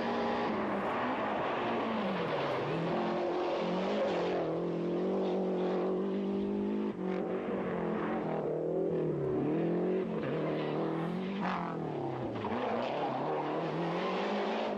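Rally car engine revving hard, its pitch repeatedly climbing under acceleration and dropping off as it lifts, brakes or shifts gear.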